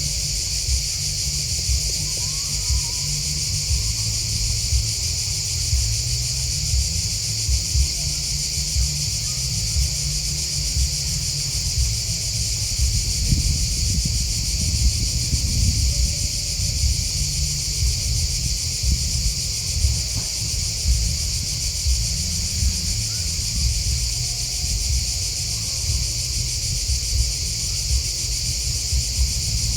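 Steady, unbroken high-pitched chorus of singing grasshoppers and crickets, with a low rumble underneath.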